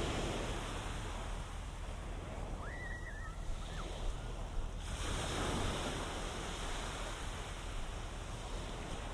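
Ocean surf washing onto a sand beach, a steady rushing that swells up again about five seconds in. A short high-pitched call rises and falls about three seconds in.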